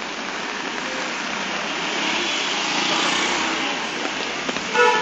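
Heavy rain on a flooded road, with a vehicle passing through the water; its noise swells to a peak about three seconds in. A brief, loud flat tone sounds just before the end.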